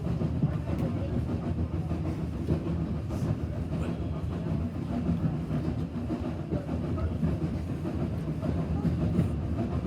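Steam-hauled passenger train running, heard from inside the carriage: a steady low rumble of the wheels on the rails.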